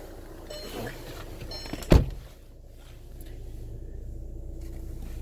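A Volkswagen Golf's car door is shut once with a solid thunk about two seconds in. After it the background drops to a quieter, steady hush.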